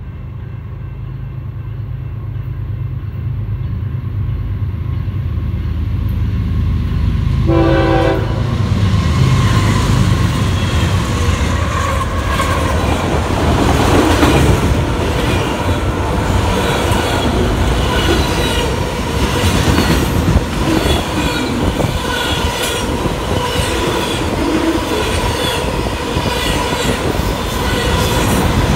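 A train approaching with a low engine rumble that grows steadily louder, a brief horn sound about eight seconds in, then the train passing close by with loud wheel noise and clacking over the rail joints.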